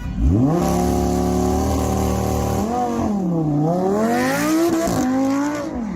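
Car engine revving: the pitch shoots up sharply at the start and holds high, drops away about halfway through, then climbs again.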